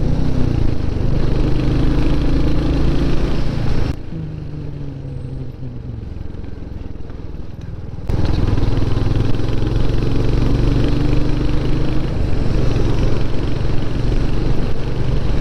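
Motorcycle engine running steadily while riding, under a rush of wind and road noise. About four seconds in the sound drops suddenly quieter, then jumps back to full level about four seconds later.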